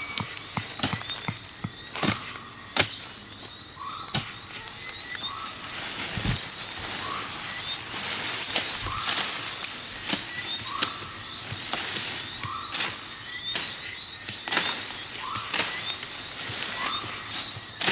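A short rising animal call repeating about once every second or so, with scattered sharp clicks and bursts of rustling.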